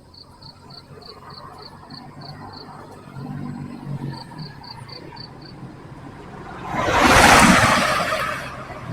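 A motor vehicle passes close by near the end, its noise swelling to a peak and fading over about two seconds. Before it, an insect chirps steadily, about three high chirps a second.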